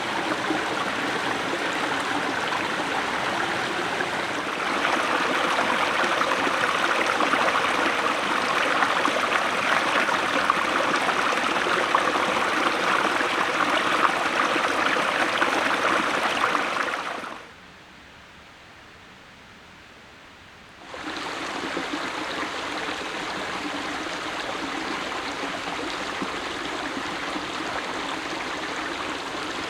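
Steady rushing of a flowing stream. It grows louder a few seconds in, drops away to a faint hush for about three seconds past the middle, then returns a little quieter.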